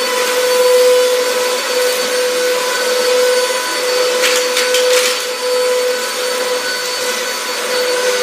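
Eureka Whirlwind Plus vacuum cleaner running, a steady high motor whine. A few brief clicks and rattles come through about halfway through.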